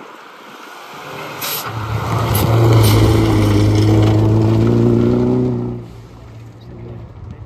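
A rally car going past at speed on the stage, its engine note building over a second or two, held loud for about three seconds, then dropping away abruptly. A few sharp cracks sound as it approaches.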